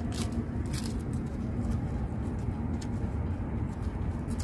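Crisp chewing crunches of a raw lettuce leaf, a few times at irregular moments, over a steady low rumble.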